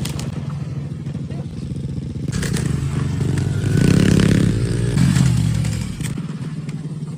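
Kayo TS90 youth dirt bike engine running, revving up and falling back twice: once near the middle and again shortly after.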